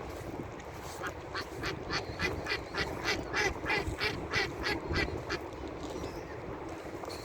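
A duck quacking in a rapid series of about fourteen calls, about three a second, which stops about five seconds in, over steady wind rumble.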